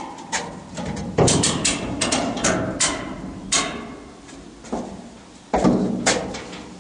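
Irregular sharp metal knocks and clanks, a few a second, with a heavier, louder clank about five and a half seconds in. The sound comes from working on the steel dump bed and the come-along that holds it under tension.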